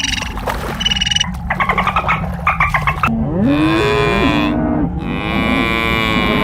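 Cow mooing twice: two long, drawn-out moos, the first bending up and down in pitch, starting about halfway through, after a stretch of a bird's quick, repeated chirping calls.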